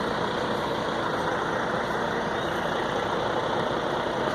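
Heavy-haul truck diesel engines running steadily close by.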